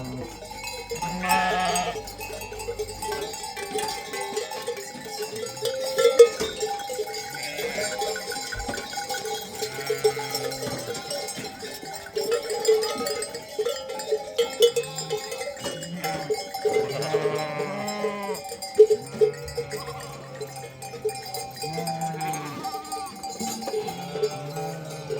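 A flock of sheep with bells clanking continuously, and sheep bleating now and then.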